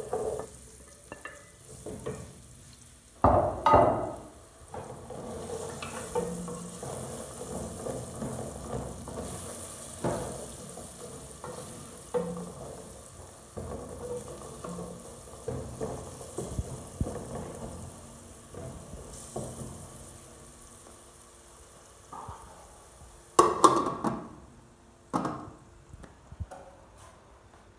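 Carrot sticks scraped off a plate with a wooden spoon into a large aluminium pot of frying onions, then stirred: steady sizzling with scrapes and knocks of the spoon against the pot. Near the end a loud clatter as the lid goes onto the pot.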